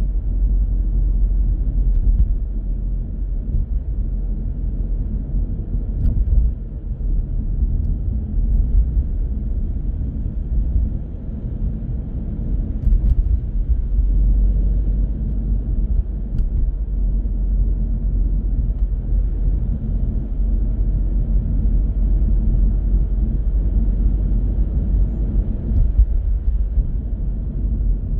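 A car driving on city roads: a steady low rumble of engine and tyre road noise, rising and falling a little in level.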